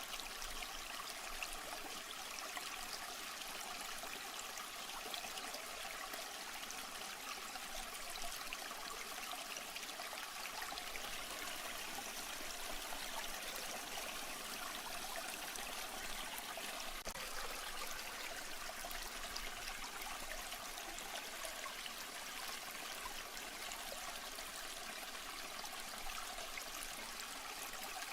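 Water trickling steadily with a fine, even patter.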